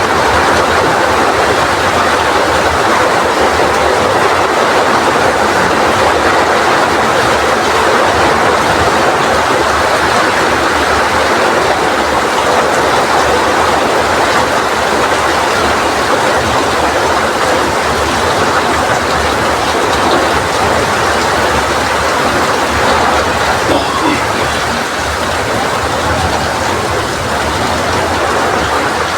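Heavy rain falling in strong wind: a loud, steady, dense rush that eases slightly near the end.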